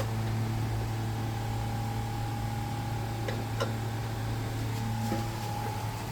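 Steady low mechanical hum with a fainter steady higher tone above it, like a fan or motor running, and two faint short ticks a little past halfway.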